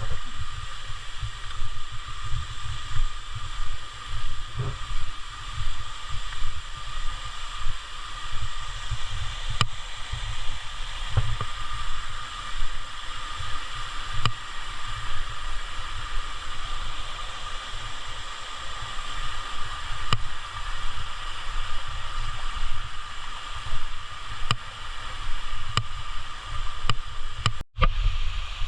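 Steady rushing of a jungle stream and waterfall, over a loud, uneven low rumble of wind buffeting the microphone.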